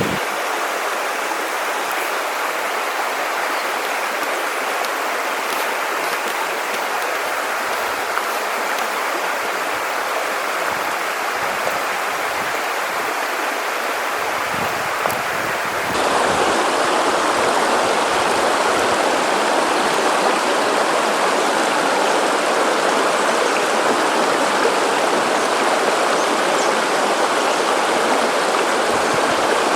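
River water rushing steadily over rocks. About halfway through, it abruptly becomes slightly louder and duller.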